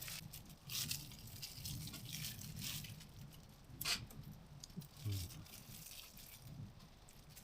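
Faint handling noises while preparing the walleye fillet: scattered light clicks and rustling, with one sharper click about four seconds in.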